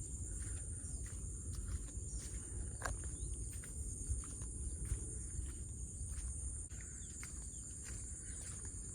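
Steady high-pitched drone of insects in the fields, over a low rumble, with scattered faint clicks.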